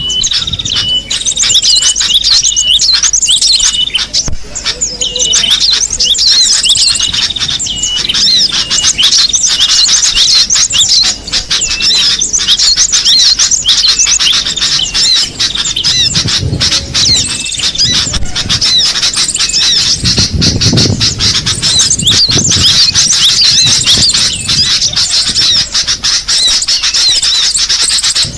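Cinereous tits (gelatik batu) calling: dense, continuous high-pitched chirping and chattering, with a short note repeated over and over in the first few seconds.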